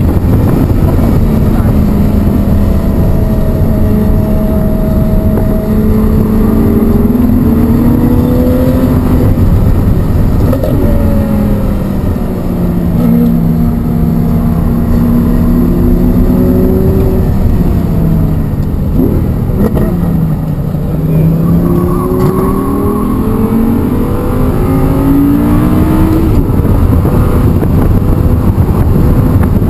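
Audi R8 V10 engine, fitted with a BMC intake, heard from inside the cabin at track pace. Its pitch climbs under acceleration, drops twice under braking into corners (lowest about two-thirds through), then climbs again, over steady road and wind noise.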